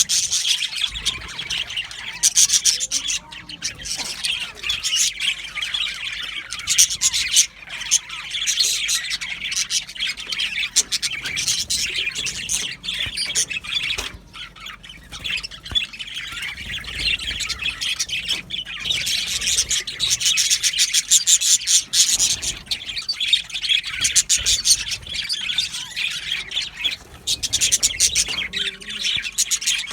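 A flock of budgerigars chattering and warbling continuously, with many overlapping chirps and squawks, busier in stretches.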